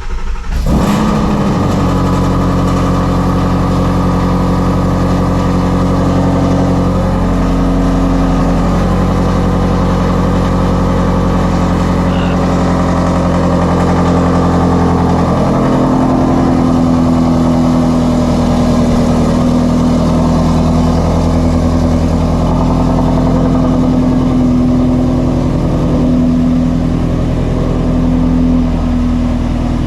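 2016 Ford Mustang Shelby GT350's 5.2-litre flat-plane-crank V8, straight-piped with long-tube headers, firing up on a cold start right at the beginning and then idling loudly and steadily, with a few small shifts in pitch.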